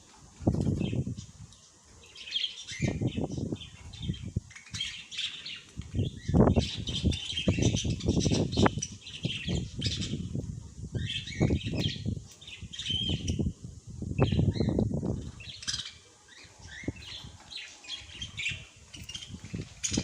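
Small birds chirping and twittering throughout, with repeated short bursts of wing flapping every second or two.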